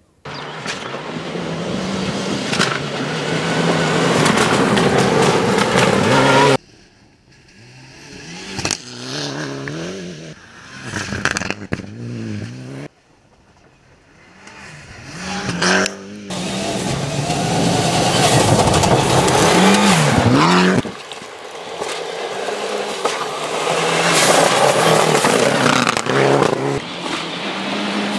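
Rally cars on a gravel stage driven hard, engines revving up and down through the gears, with tyres on loose gravel. The sound is a series of separate passes, cutting off abruptly about a third and about halfway through before building loud again.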